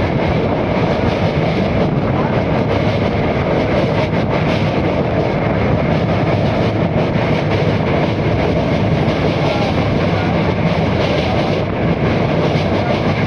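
Express passenger train running at speed over a river bridge: a steady, loud rumble of wheels on rails with faint rhythmic clicking.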